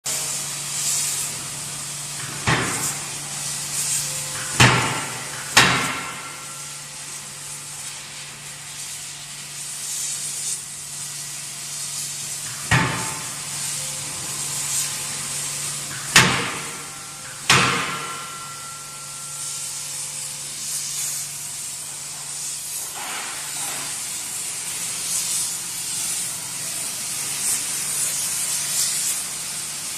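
CNC die-forging hammer striking hot wheel blanks: six heavy, irregularly spaced blows, some in close pairs, each followed by a brief metallic ring, over a steady machine hum and continuous hissing.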